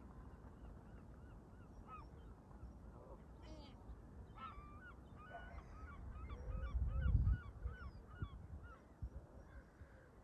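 Canada geese honking, a run of short repeated calls at about two or three a second through the middle, with other bird calls before it. Wind rumbles on the microphone throughout, with a loud gust about two-thirds of the way in.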